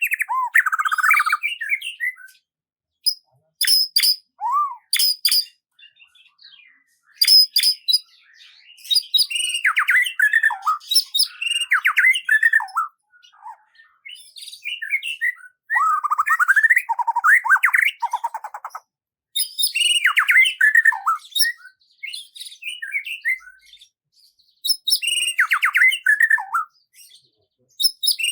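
A songbird singing in phrases of a few seconds, about six in all, separated by short pauses. Each phrase mixes rapid high chirps with falling whistled notes.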